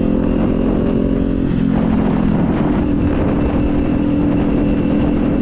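Motorcycle engine running while being ridden, its note shifting about a second and a half in and then holding steady.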